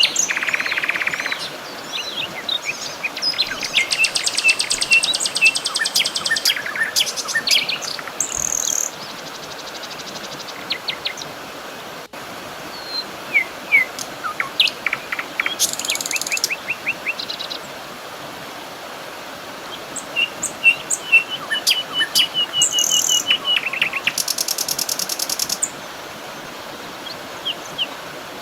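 Several wild birds singing and calling: short chirps, sliding whistled notes and fast rattling trills, overlapping, over a steady hiss.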